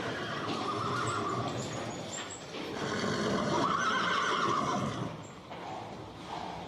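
Horse whinnying twice: a shorter whinny about half a second in, then a longer, louder one from about three to five seconds in.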